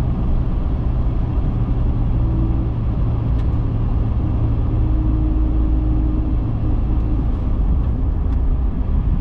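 2010 Dodge Viper SRT10's 8.4-litre V10 running steadily at cruising speed, a low even rumble heard from inside the cabin.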